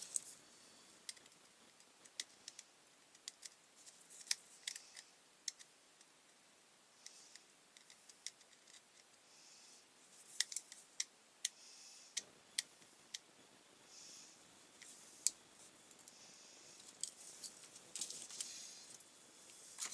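Screwdriver tightening the cable-grip screw of a mains plug: scattered sharp little clicks and short scrapes of metal on plastic, denser about halfway through and again near the end.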